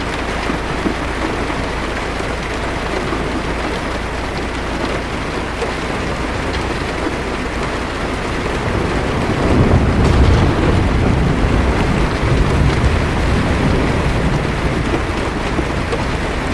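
Heavy rain drumming steadily on a car's roof and windshield, heard from inside the car. About halfway through, a low roll of thunder swells up and then fades back under the rain.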